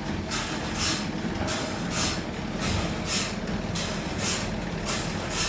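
Sawmill machinery running with a regular rhythm of hissing strokes, a little under two a second, over a low mechanical rumble.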